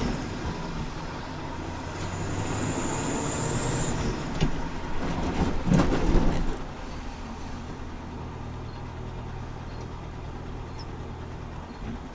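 Vehicle engine and road noise, with a sharp knock about four seconds in and a louder cluster of knocks around six seconds, then steadier running.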